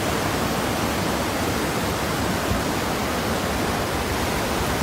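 A steady, even rushing hiss at a constant level, with no strokes, rhythm or changes.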